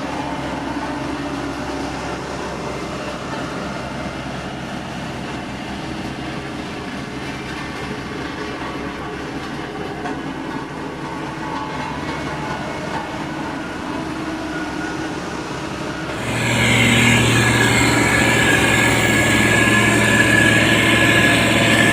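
Heavy diesel construction machine running steadily. About sixteen seconds in the sound suddenly gets louder and harsher, with much more high-pitched noise.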